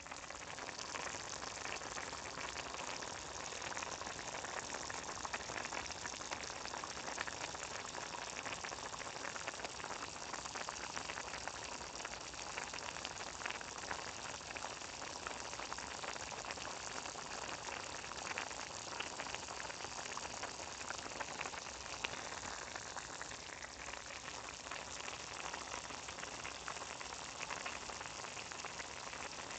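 A pot boiling, its bubbling a steady hiss dense with small pops and crackles.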